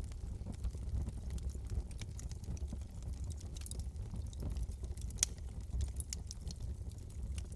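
Wood fire crackling in a fireplace: irregular sharp snaps and pops over a steady low rumble of the flames, with one louder pop about five seconds in.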